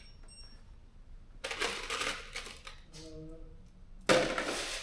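Loose steel bolts and washers clattering as they are handled and dropped into a kit box: a clatter about a second and a half in, then a louder, sharper one near the end.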